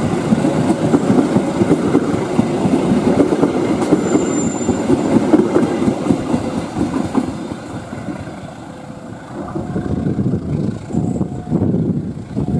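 Passenger train coaches rolling past close by, their wheels clattering loudly over the rails. The sound drops off about seven seconds in as the train moves away, and continues more faintly after that.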